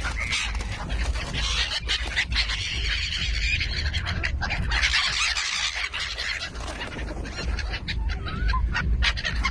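A flock of birds calling and chattering together as they crowd in to eat scattered popcorn, over a steady low rumble.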